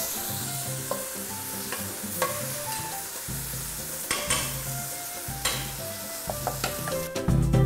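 Okra sizzling and frying in a very hot pan while it is stirred, with several sharp clicks of the utensil against the pan. Background music plays underneath and grows louder near the end.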